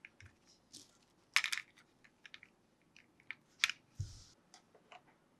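Hands handling a plastic toy and its packaging: scattered light clicks and crinkles, a denser clatter about a second and a half in and again near four seconds, followed by a soft thump.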